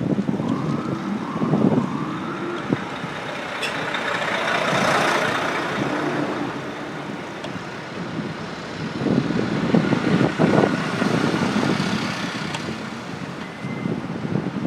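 Wind buffeting a handlebar-mounted phone microphone during a bicycle ride, with city traffic noise throughout. A vehicle swells past about four to six seconds in.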